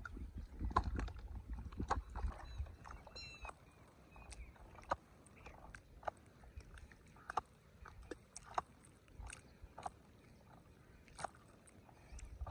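Scattered sharp clicks and knocks, irregular, one every second or so, over a low rumble that fades out about three and a half seconds in.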